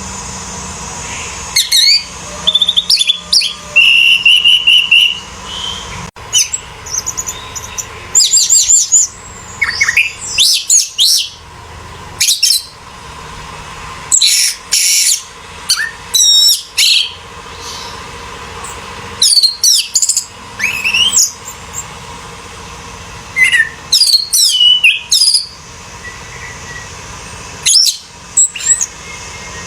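Orange-headed thrush (anis merah) singing loudly in varied phrases of rapid rising and falling whistles, each up to about a second and a half long, with short pauses between them.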